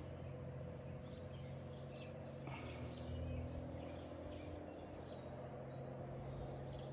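Quiet steady low hum with faint scrapes and clicks of small trimmer parts being handled and pressed into place.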